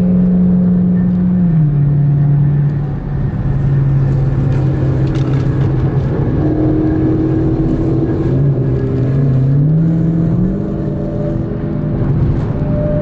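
Dodge Hellcat's supercharged V8 running at high speed on the highway, a steady engine drone. Its pitch dips about a second and a half in and climbs back up near ten seconds in.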